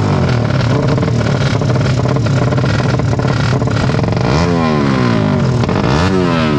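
Racing motorcycle engines running loudly, with a steady drone at first. About four seconds in they rev: the pitch rises and falls in repeated sweeps.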